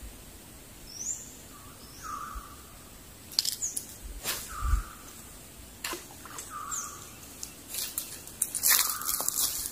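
A bird calling over and over from the forest, a short high upsweep and a lower falling note repeated every second or two. A few sharp clicks break in midway, and a run of crackling, crunching clicks near the end is the loudest part.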